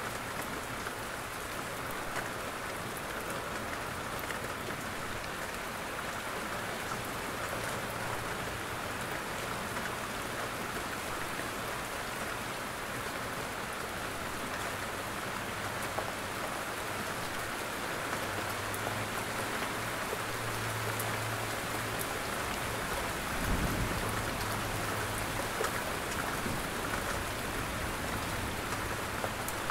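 Steady rain falling, with drops hitting a roof. A brief low thump comes about three-quarters of the way through.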